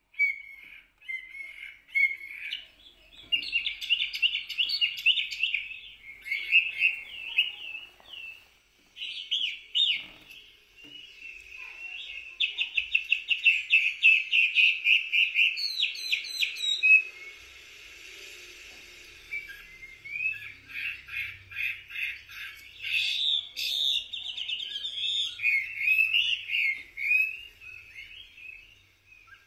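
Small songbirds chirping and trilling, in quick runs of rapidly repeated high notes broken by short pauses.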